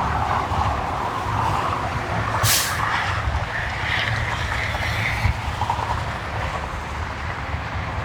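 Steady low rumble of highway traffic and idling trucks, with a short hiss about two and a half seconds in.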